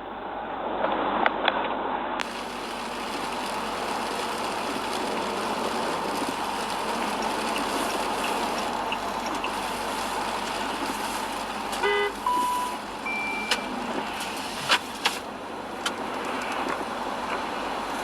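Steady road-traffic noise, with a brief car horn toot about twelve seconds in, followed by a couple of short beeps and a few sharp clicks.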